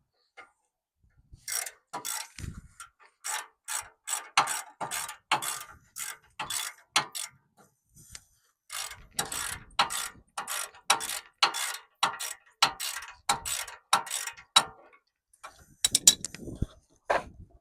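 Hand ratchet wrench clicking in quick back-strokes on a bolt, about two to three clicks a second, in two long runs with a short pause about eight seconds in. A few sharper, louder clicks come near the end.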